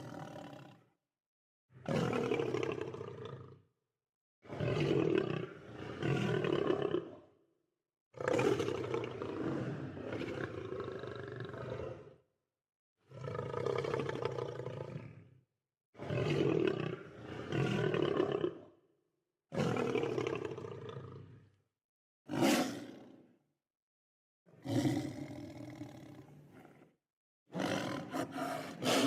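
Lion roaring: a series of about ten separate roars, each one to four seconds long with a deep pitched core. Each roar is cut off into dead silence before the next begins.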